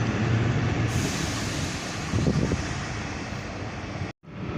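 Class 150 diesel multiple unit departing: diesel engine drone and wheel rumble, slowly fading as it pulls away.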